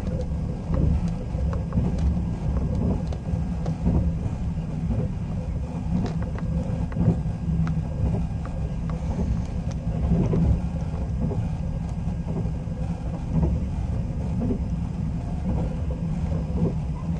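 Steady low rumble of a sleeper train running along the line, heard from inside the passenger car. Scattered light clicks and knocks from the running gear sound through it.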